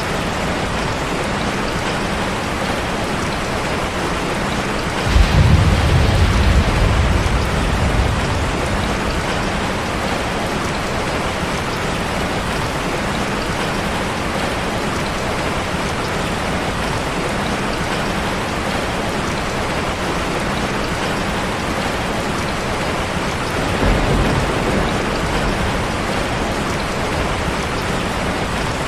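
Steady rain, with two low rumbles of thunder: a sudden one about five seconds in that fades away over a few seconds, and a weaker one about two-thirds of the way through.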